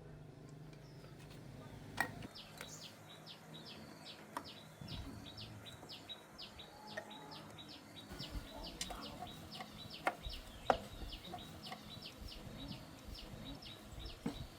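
A bird chirping in a rapid, even series of short high chirps, about three a second, starting a couple of seconds in. A few sharp clicks or knocks are heard over it, the loudest about 2 and 10.7 seconds in.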